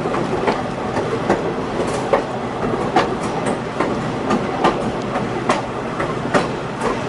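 Passenger train rolling along: a steady rumble of wheels on rail, with sharp clicks about once a second as the wheels pass over rail joints.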